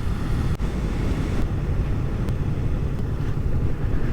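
Motorcycle riding along the road: engine running under way, with wind rushing and buffeting over the microphone.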